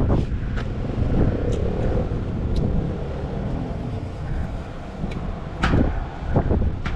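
Suzuki running down the road, heard from inside: steady engine and road rumble with wind buffeting the microphone, and a couple of sharp clicks a little over five and a half seconds in.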